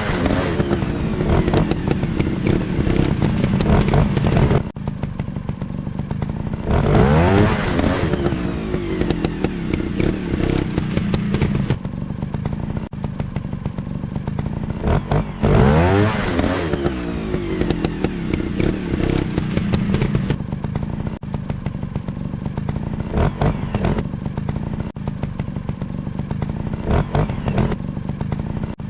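Motocross bike engines running and revving, their pitch sweeping up and falling away strongly twice, about a quarter and about half way through. Frequent knocks and rattles run through it.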